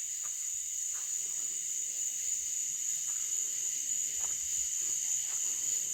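A steady, high-pitched chorus of night insects, a cricket-like trilling, with a few faint ticks now and then.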